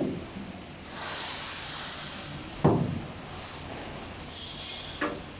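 Fiber laser cutting machine hissing as its assist gas blows through the cutting nozzle into stainless steel, starting about a second in. A sharp knock comes about halfway through and a lighter one near the end.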